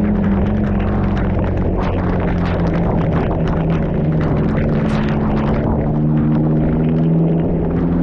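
Motorcycle engine running at a steady cruise, its note easing a little lower partway through, with wind and road noise rushing over the microphone.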